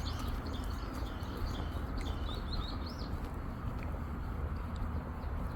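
Small birds chirping: a quick series of short, high, arched notes over the first three seconds, then only an occasional chirp, over a steady low rumble.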